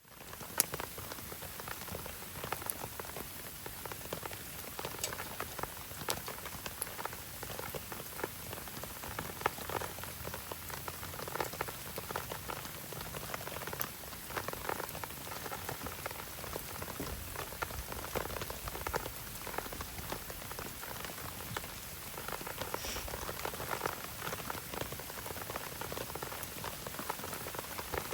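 Steady patter of rain mixed with the crackle of a wood campfire, with occasional sharp pops from the burning wood.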